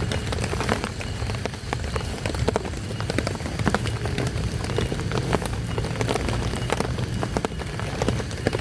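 Heavy rain falling, with many separate drops striking a surface in quick irregular taps over a steady low rumble.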